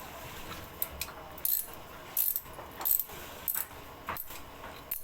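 Light metallic clinks repeating about every two-thirds of a second, metal on metal as in work on a motorcycle engine.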